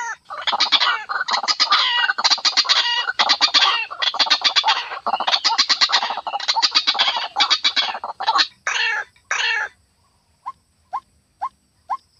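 White-breasted waterhen (ruak-ruak) calling: a dense run of harsh, rapid croaking calls, then a short break. After that come evenly spaced single short notes, about two a second, near the end.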